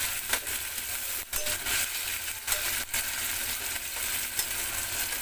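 Sliced onions, green chillies and tomatoes sizzling in hot oil in a kadhai, stirred with a metal spatula.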